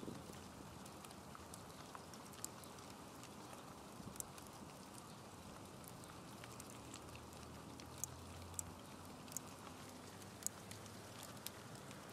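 Light rain falling: a faint steady hiss with scattered individual drops ticking, a few of them louder.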